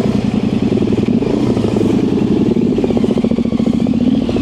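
Yamaha Ténéré 700's parallel-twin engine running at low speed with a steady, rapid firing beat through an aftermarket high exhaust.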